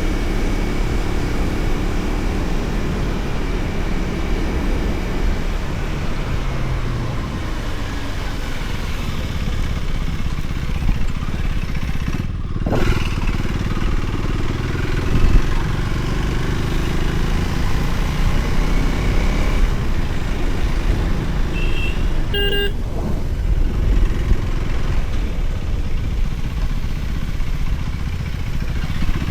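Motorcycle riding along a road, with a steady low rumble of engine and wind. About two-thirds of the way through comes a short horn toot.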